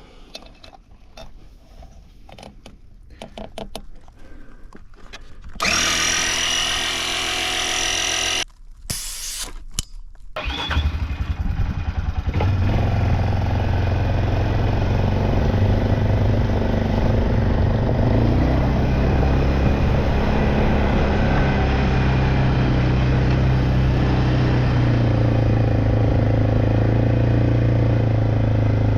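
Four-wheeler (ATV) engine being cranked over by its starter, twice, with a short break between. About ten seconds in it catches and settles into a steady idle.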